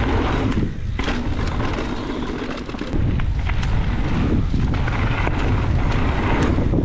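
Wind buffeting the microphone during a fast mountain-bike descent on dirt trail, a steady low rumble with tyre noise, broken by scattered knocks and rattles from the bike over the ground.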